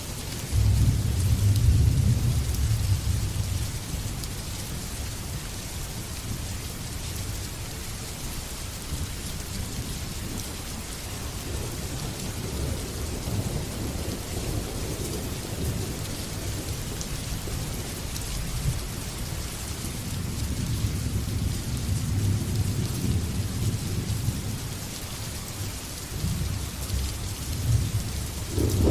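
Steady rain with rolling thunder. A loud low rumble of thunder breaks in about half a second in and dies away over a few seconds. The rumbling builds again over the last third.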